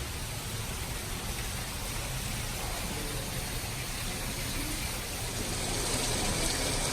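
Steady rushing noise that grows a little louder near the end.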